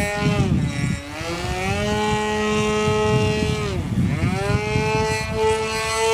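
A .46-size two-stroke glow engine on an RC airplane, turning a 12x4 APC propeller, running at high throttle. Its pitch drops and climbs back about a second in and again about four seconds in as the throttle is pulled back and opened up.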